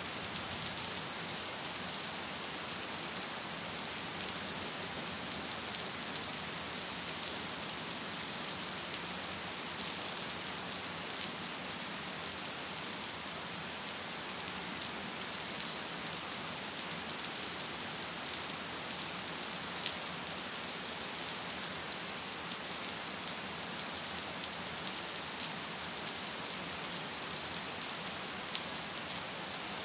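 Steady gentle rain falling: an even hiss, with a few louder single drops now and then.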